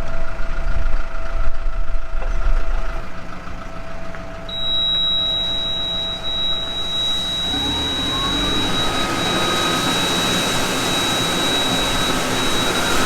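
A farm machine's engine running steadily, then speeding up about halfway through, its pitch rising and settling higher. A steady high whine comes in a few seconds in.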